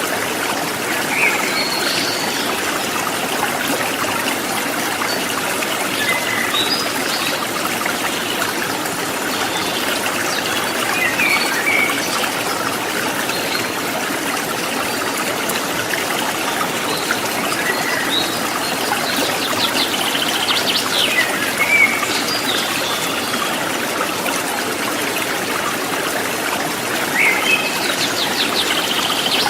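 Shallow river running over rocks: a steady rush and trickle of water. Short bird chirps come now and then, several in a cluster near the end.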